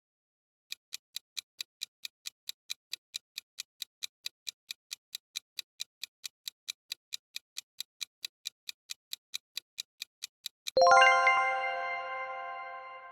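Quiz countdown-timer sound effect: even clock-like ticks, about four a second for about ten seconds, then a bright bell chime that rings out and fades, marking the end of the countdown.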